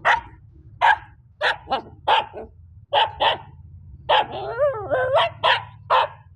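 A dog barking repeatedly: about a dozen sharp barks, singly and in quick pairs, with a longer wavering cry about four seconds in.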